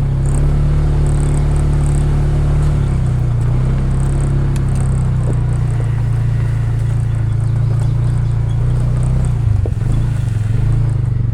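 A vehicle engine running steadily with a low hum. Its pitch drops slightly about three seconds in and again near the end.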